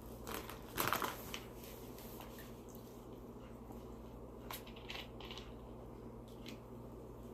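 Close-up eating sounds: a short burst of crunching and mouth clicks about a second in, then a few faint clicks, over a low steady hum.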